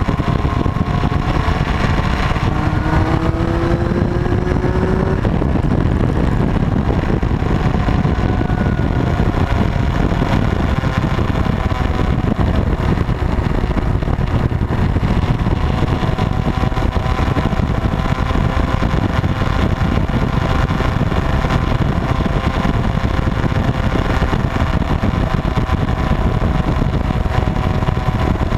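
Motorcycle riding on the road, its engine running steadily under a heavy, constant rush of low noise, with a short rising tone a few seconds in.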